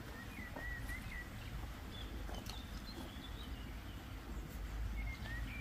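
Faint bird calls, thin wavering high notes near the start, in the middle and again near the end, over a low steady outdoor rumble.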